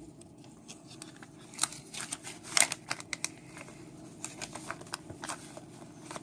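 A small bag being handled, giving a run of irregular crinkles and sharp clicks for a few seconds.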